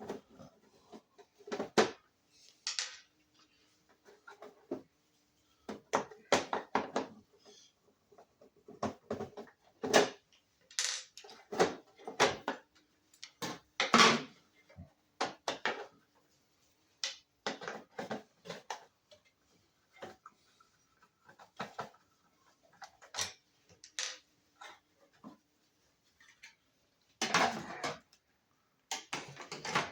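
Irregular clicks, taps and light rattles of small plastic and metal parts being handled and worked with hand tools while a truck's speedometer and odometer unit is taken apart.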